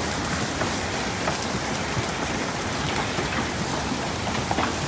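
Hail and rain coming down steadily in a hailstorm, a constant hiss of falling water with scattered sharp clicks of hailstones striking.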